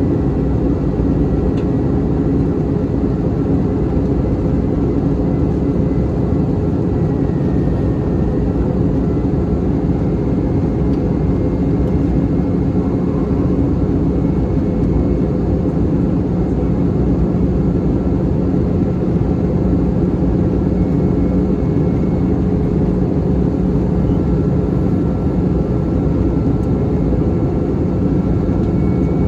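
Steady cabin roar inside an Airbus A321-211 airliner during its descent, from its CFM56 engines and the airflow over the fuselage, with a few faint steady engine tones.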